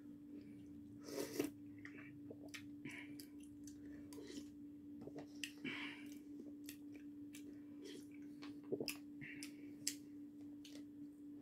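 Close-up mouth chewing and smacking of cup udon noodles, with scattered small clicks and scrapes of a utensil picking the last bits out of the cup. A steady low hum runs underneath.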